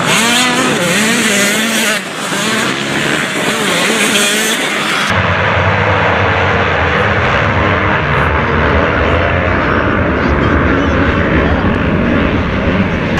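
Motocross bike engines revving hard, their pitch sweeping up and down as they rise and fall through the gears. About five seconds in the sound cuts to a duller, deeper, steady engine noise.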